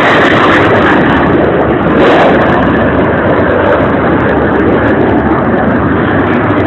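Blue Angels F/A-18 Hornet jets flying by: a loud, steady rush of jet engine noise.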